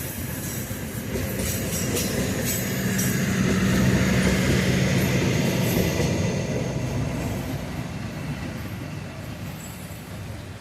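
A diesel-locomotive-hauled train passing: the locomotive's low engine hum and the rumble and clatter of wheels on rail swell to a peak about four seconds in, then slowly fade as the train moves off.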